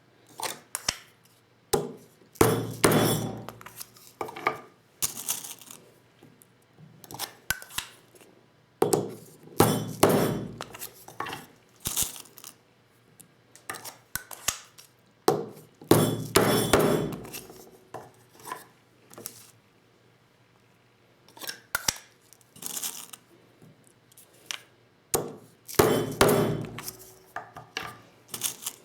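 Clinks, taps and knocks of metal reloading tools and shotgun shells being handled on a bench during hand-reloading with a Lee Loader kit. Scattered sharp clicks, with heavier clusters of knocks about three, ten, sixteen and twenty-six seconds in.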